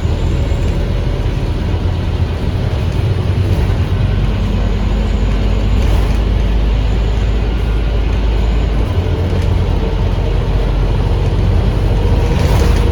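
Onboard sound of a Scania K310UA articulated bus under way: the Scania DC9 five-cylinder diesel running steadily with road and cabin noise. A faint whine rises slightly over the last few seconds, and there is a short hiss near the end.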